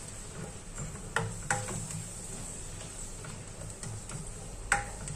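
Onions and ginger sizzling softly in butter in a pan while a utensil stirs them, knocking sharply against the pan a few times.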